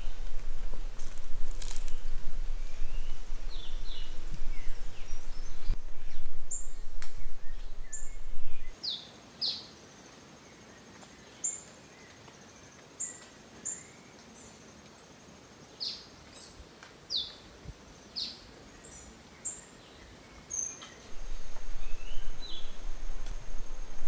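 Birds calling in tropical forest: short, high notes that slide downward, every second or two. A loud low rumble fills the first nine seconds, cuts off suddenly, and returns about three seconds before the end; in the quiet stretch between, a thin high steady tone runs behind the calls.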